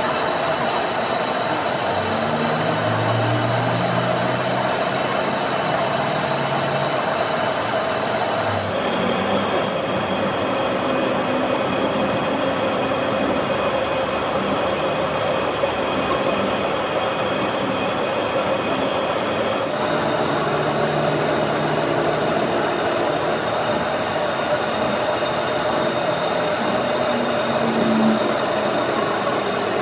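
Steady machine running noise with a constant hum, whose character changes abruptly twice, about a third and two-thirds of the way through.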